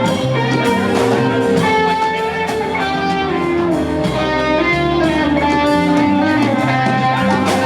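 Live band playing an instrumental passage led by electric guitar, with bass and drums.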